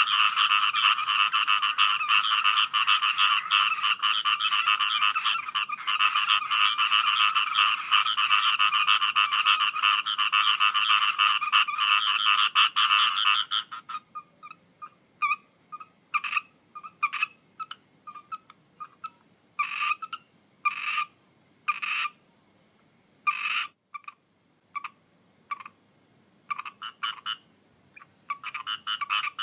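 A chorus of frogs croaking, dense and continuous for about the first half, then stopping suddenly to leave scattered single calls, before the chorus builds again near the end. A thin steady high tone is heard while the chorus is down.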